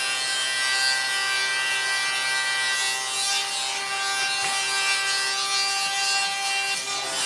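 A power tool running steadily against wood, a constant motor whine under a rough, rasping noise of abrasion.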